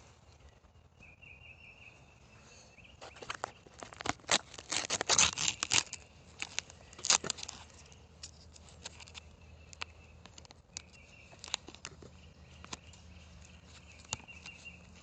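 Handling noise close on a phone's microphone as the phone is taped onto a dirt bike: scattered rustles, crackles and knocks, thickest and loudest a few seconds in. A faint, steady, high-pitched trill comes and goes in the background.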